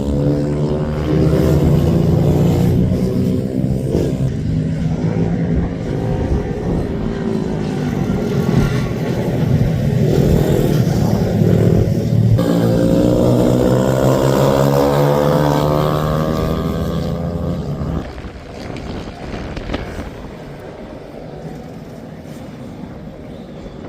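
Several racing minibike engines at high revs, their pitch rising and falling through gear changes and passes as the pack goes by. The sound drops away sharply about eighteen seconds in, leaving a fainter engine drone.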